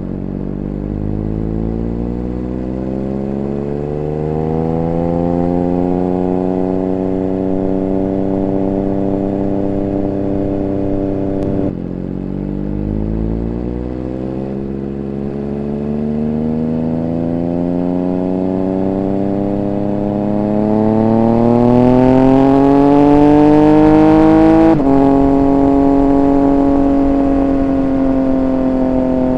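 Triumph Speed Triple 1200 RR's inline-triple engine accelerating under load: its pitch climbs steadily, falls suddenly at an upshift about halfway through, climbs again to a louder peak, then falls at a second upshift and holds steady near the end.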